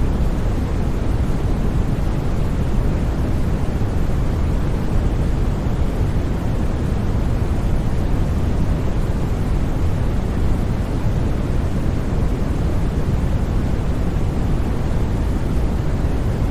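Steady synthetic white noise for sleep, unchanging throughout, weighted toward the low end so it sounds like a deep, even rush rather than a bright hiss.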